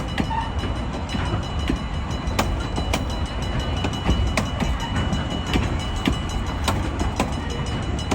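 Train rolling along the track: a steady low rumble with irregular sharp clicks of the wheels over rail joints, and a faint steady high-pitched tone.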